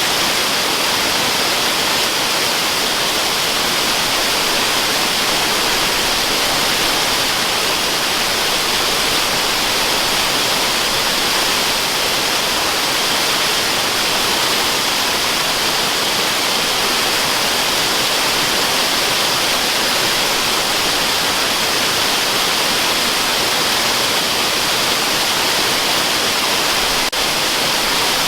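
Waterfall sound: a steady, even rush of falling water, hissy and heavy in the highs with little low rumble.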